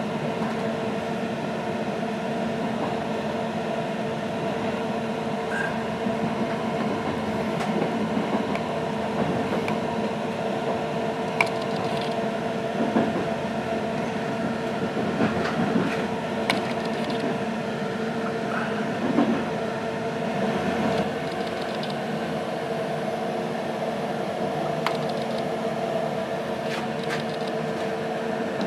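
Steady running noise inside an intercity passenger carriage on the move: a constant hum with a steady mid-pitched tone, and a few short clicks and knocks scattered through it as the wheels pass over points and rail joints.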